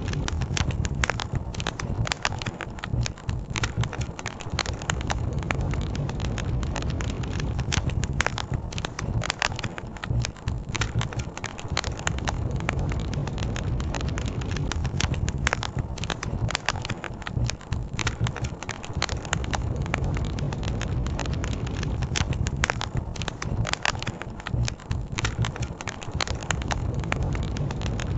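Campfire crackling with frequent sharp pops and snaps over a steady low rumble, the rumble likely from the river.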